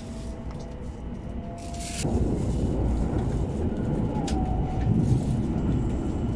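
Steady rumble of a Shinkansen bullet train heard from inside the passenger cabin while running at speed, growing louder about two seconds in, with a brief rustle just before.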